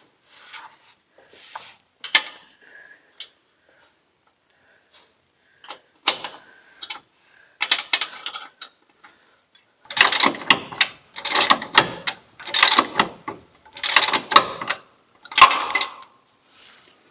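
Hand ratchet wrench clicking in short bursts as the exhaust's bolts are snugged up, with scattered light metal clinks. Near the middle the ratcheting turns louder and regular, a burst about every second and a quarter, then stops shortly before the end.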